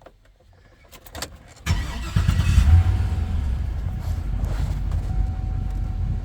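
2006 GMC pickup engine starting after a couple of faint clicks. About two seconds in, the engine cranks and catches with a brief flare, then settles into a steady idle.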